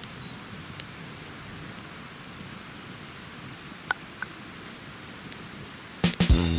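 Steady rain falling, with a few sharp drips standing out. Guitar music starts near the end.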